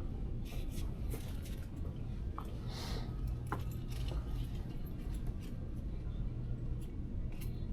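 Steady low engine rumble with scattered light clicks and jingles over it.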